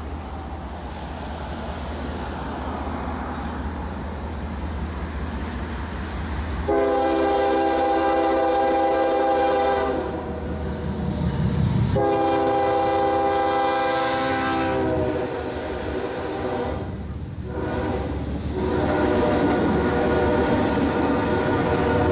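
Norfolk Southern diesel locomotive rumbling closer, then its air horn sounding long chord blasts: one about seven seconds in, one about twelve seconds in, and a third near the end that is still sounding.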